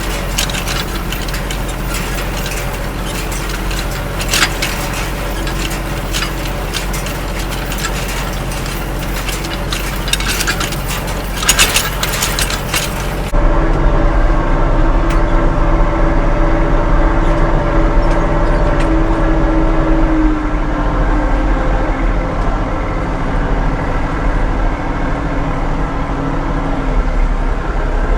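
Farm tractor engine running steadily while raking hay, with clattering and rattling over it for the first dozen seconds. About 13 seconds in, the sound changes abruptly to a smoother, steadier engine hum.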